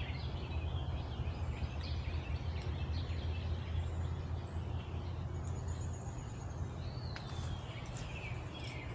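Outdoor ambience: small birds chirping on and off, more often near the end, over a steady low rumble.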